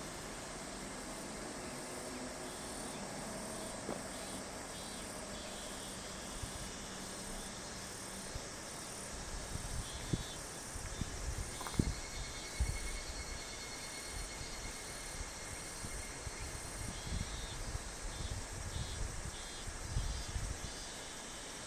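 Summer insects calling in repeated pulsing phrases over a steady outdoor hiss, with irregular low rumbling from about halfway in.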